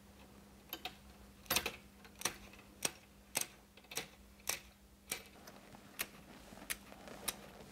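Net shears snipping through plastic bird netting: a steady series of sharp clicks, about two cuts a second, as the net is trimmed along the frame.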